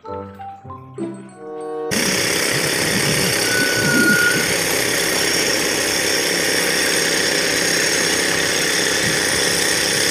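A few xylophone-like mallet notes, then about two seconds in a loud, steady snare drum roll begins and keeps going.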